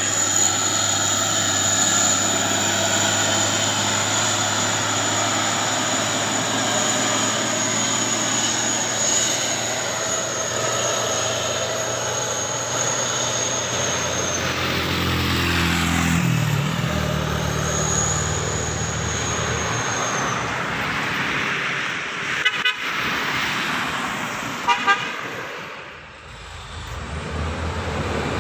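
Heavy diesel trucks running as they pass on a hill road, the engine note shifting partway through, with a high steady whine over it for the first two-thirds. Two short horn toots sound near the end.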